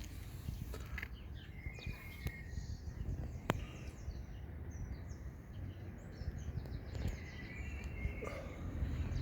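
Outdoor background noise: a steady low rumble with a few short bird chirps and scattered clicks.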